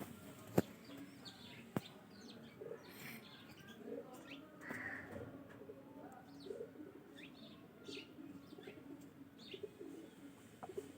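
Birds calling: many short, high, falling chirps over low, steady cooing, with two sharp clicks about half a second and nearly two seconds in.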